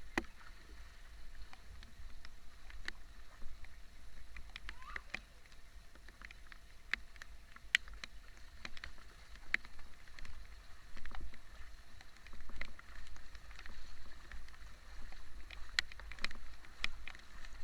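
Rain: scattered drops and drips ticking sharply at irregular moments over a faint steady hiss of rainfall, with a low rumble underneath.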